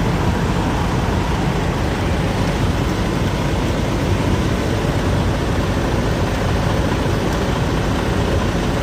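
Steady low rumble of idling diesel truck engines, with no change in level.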